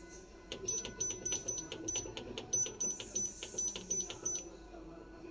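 Quick run of light metallic clicks, about three to four a second, each with a thin high ring, over a faint steady hum.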